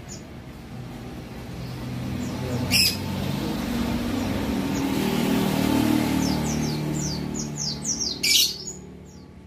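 White-eyes (pleci) calling: a short, sharp call about three seconds in, a quick run of high, falling chirps, then another sharp call near the end. Under them a low rumble swells in the middle and fades.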